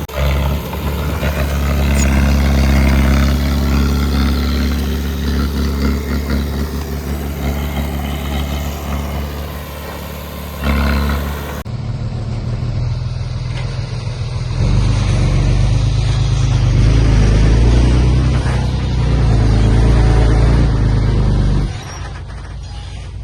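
Heavy diesel engine of earthmoving machinery running under load, its pitch rising and falling. About halfway through the sound changes abruptly to a second engine stretch, which is louder in the low range, and near the end it drops off.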